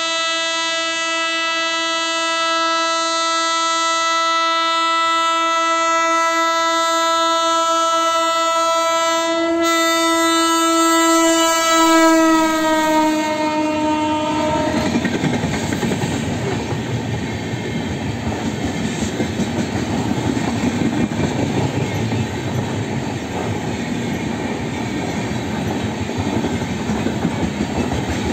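WAP-7 electric locomotive's horn sounding one long, steady blast of about fourteen seconds, its pitch dropping as the locomotive passes. Then the express's coaches roll by at speed with a steady rumble and rhythmic wheel clatter.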